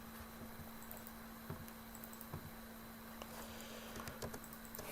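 Faint, scattered clicks of typing on a computer keyboard, over a steady low electrical hum.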